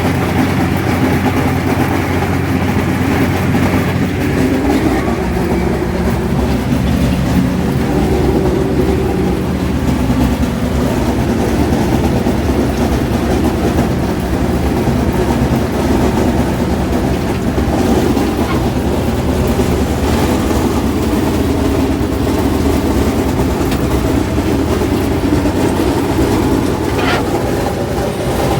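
Allis-Chalmers 7000 tractor running steadily under load while cutting hay with a sickle mower, a loud continuous mechanical clatter over the engine drone.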